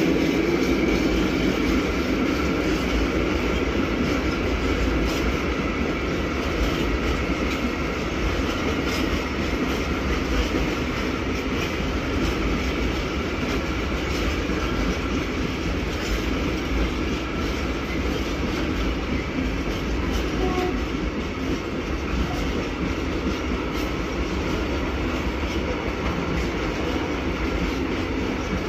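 A train of railway wagons rolling past at a steady speed for the whole stretch, wheels clicking and rumbling on the rails.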